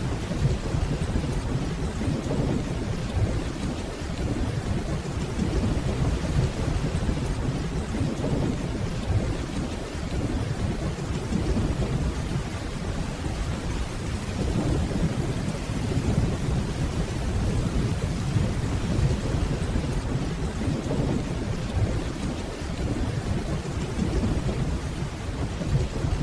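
Steady rainfall under a low rumble of distant thunder that swells and fades every few seconds.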